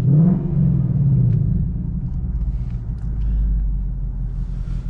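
2018 Ford Mustang GT's 5.0-litre V8 through its active exhaust in track mode: the engine note falls back from a rev over the first second or so, then settles into a steady deep idle rumble.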